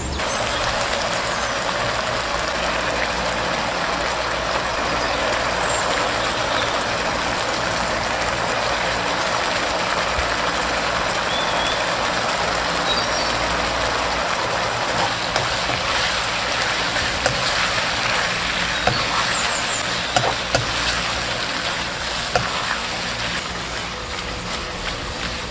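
Food sizzling in hot oil in a pan: a steady hiss, with scattered crackles and pops from about halfway on.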